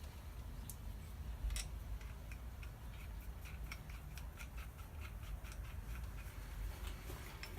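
Light clicking from hand work on small metal parts: a few single sharp clicks, then an even run of about four or five clicks a second for several seconds, over a low background hum.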